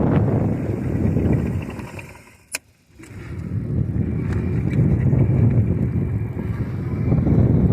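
Wind buffeting the microphone and road rumble while riding an electric bike, a rough low rumble that dies away for about a second with a single click about two and a half seconds in, then builds again as speed picks up.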